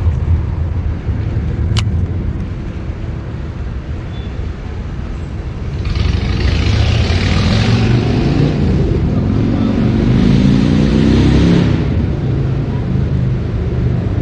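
A steady deep rumble throughout, with a motor vehicle's engine passing close between about 6 and 12 seconds in, its pitch sliding as it goes by.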